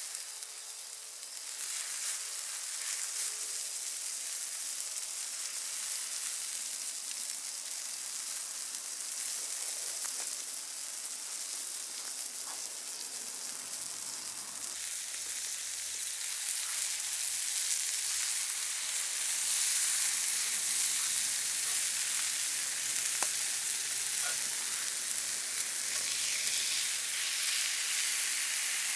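Steak sizzling over an open wood fire: a steady frying hiss with scattered small pops, getting a little louder about halfway through.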